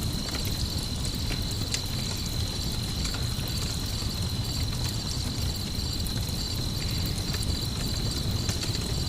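Crickets trilling steadily in a high, even pulse over the low rumble of a campfire, with an occasional sharp crackle from the fire.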